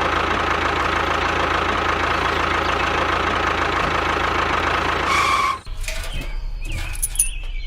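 A motor or engine running steadily, cutting off abruptly about five and a half seconds in; quieter scattered chirping tones follow.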